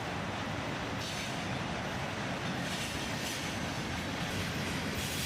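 Freight train cars rolling past with a steady noise of steel wheels on the rails, slightly brighter from about a second in.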